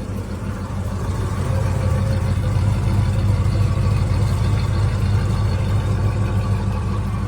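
A 1972 Oldsmobile Custom Cruiser's V8 engine idling with a steady low rumble, growing a little louder about two seconds in. The owner calls the engine tired.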